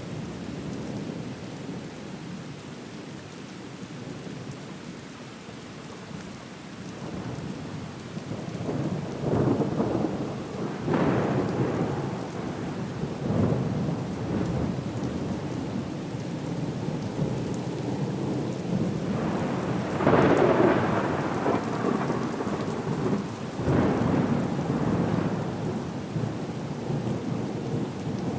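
Storm ambience: steady rain with rolls of thunder. Several louder rumbling swells rise out of the rain, the biggest about two-thirds of the way through.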